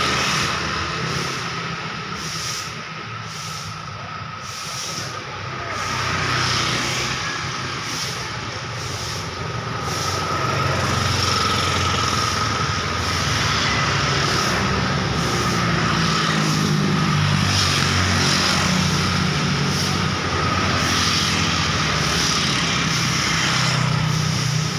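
Busy road traffic: motor vehicles passing continuously, engine rumble and tyre noise swelling as heavier vehicles go by, with a faint steady high tone running underneath.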